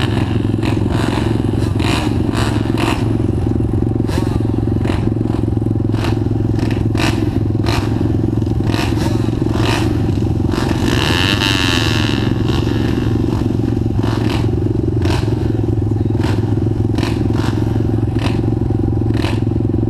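Pit bike engine running steadily, with frequent sharp clattering knocks and a brief higher whine near the middle.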